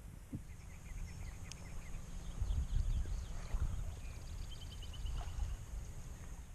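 A small bird chirping in quick, evenly spaced runs of short notes, twice, over a low, uneven rumble.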